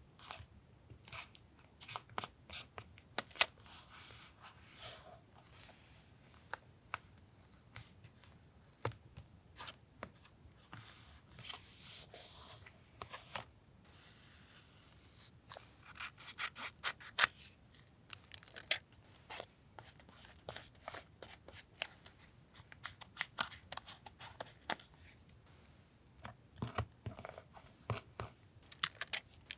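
Scissors snipping paper in scattered short clicks, with paper being rubbed and handled between cuts; a longer rubbing stretch comes about twelve seconds in.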